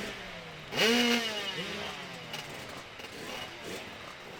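Motorcycle engine revved hard once about a second in, its pitch shooting up and then falling away over about a second, with quieter engine sound afterwards.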